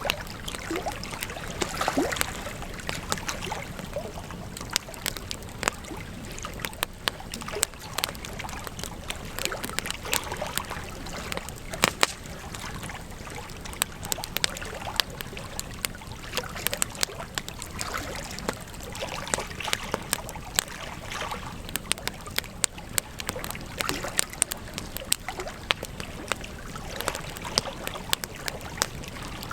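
Wood campfire crackling, with frequent sharp irregular pops and snaps over a steady burning hiss; the loudest pops come about two and twelve seconds in.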